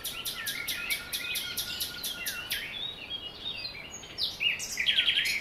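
Several small birds chirping and singing, their calls overlapping. A rapid run of short notes fills the first half, and a louder flurry of chirps comes near the end.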